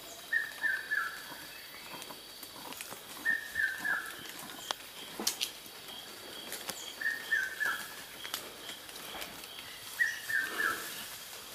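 A forest bird singing a short phrase of a few quick notes that step downward, repeated four times about three to four seconds apart, over fainter higher chirps.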